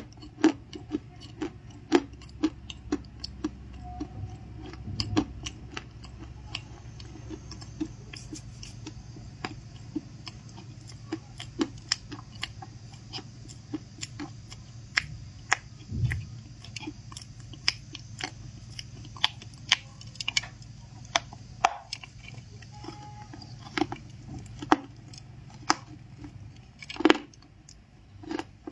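Chewing of crunchy stuffed cookies: an irregular run of crisp, sharp crunches and mouth clicks, several a second at times.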